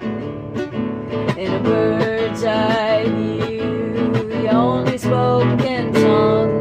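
Music: acoustic guitar strumming chords with ringing notes, the instrumental close of a slow emo song.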